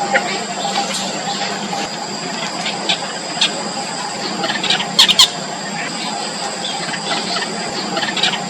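Nestling birds' high-pitched begging squeaks: faint short chirps throughout, with a loud burst of three quick squeals about five seconds in, over a steady background hum.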